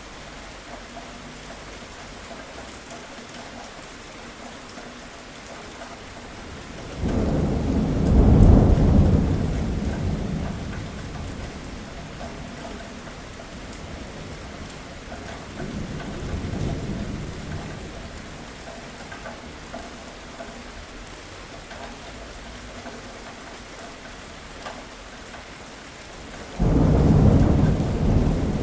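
Steady rain with rolling thunder: a sudden loud crack about a quarter of the way in that rumbles away over several seconds, a fainter roll near the middle, and another sudden loud peal near the end.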